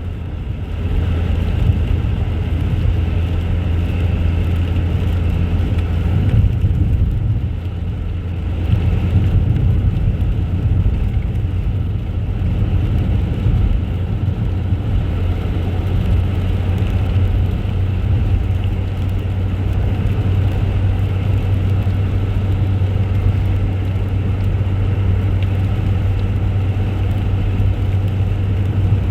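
Car engine running steadily with road noise while driving: a continuous low hum.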